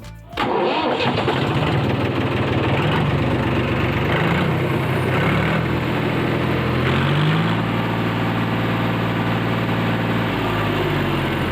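Tractor engine running steadily, its revs shifting up and down a little and rising about seven seconds in.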